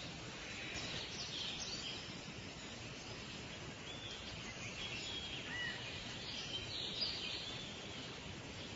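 Nature ambience: small birds chirping now and then over a steady background hiss.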